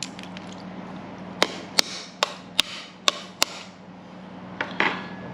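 Six sharp knocks, about two a second, on the shell of a cooked mud crab as it is cracked open, followed by a rougher crunching noise near the end.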